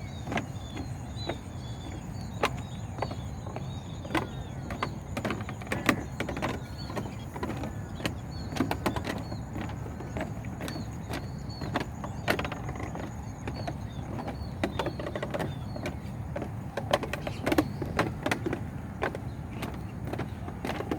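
Irregular sharp taps and clicks over a low rumble, with a few short high chirps and a steady thin high tone behind them.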